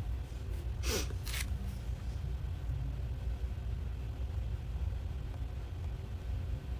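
Steady low rumble, with one brief short sound about a second in.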